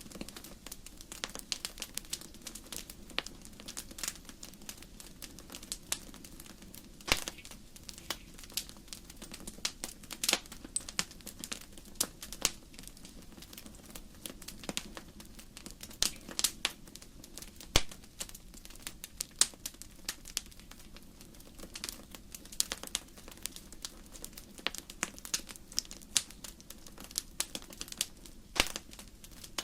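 Wood fire burning in a fireplace, with irregular sharp crackles and pops from the burning logs over a steady low rush of the flames.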